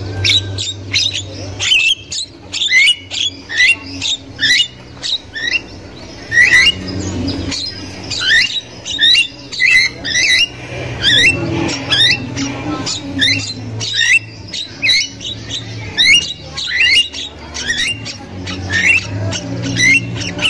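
Javan myna (jalak kebo) calling vigorously: a rapid, unbroken string of harsh squawks and short upward-sweeping notes, about two to three a second.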